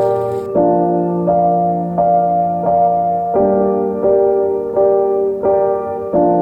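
Background piano music: slow, gentle chords changing about every two-thirds of a second.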